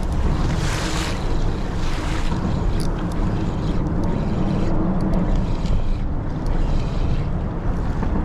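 Wind buffeting the microphone, a steady rough rush strongest in the low range, with a faint low hum wavering underneath.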